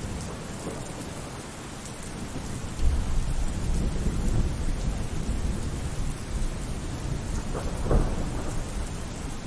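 Steady rain with rolling thunder: a deep rumble builds about three seconds in and goes on for several seconds, with a sharper clap near the end.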